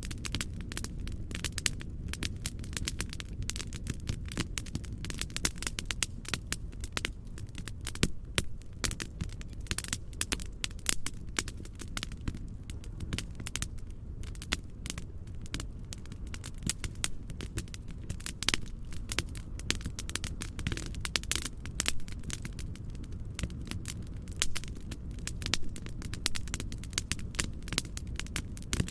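Wood fire crackling, with frequent irregular sharp pops and snaps over a steady low rumbling noise.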